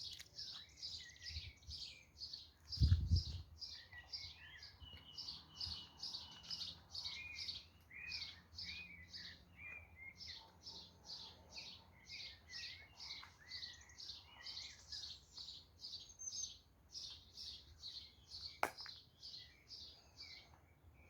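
A bird chirping steadily, short high notes repeated about three times a second, with some lower warbling notes mixed in for a few seconds. A low thump comes about three seconds in.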